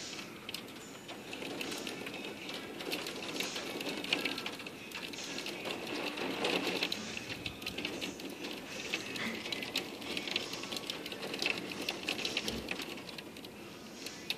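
Rain falling, with a dense run of quick, irregular drip taps over a steady hiss.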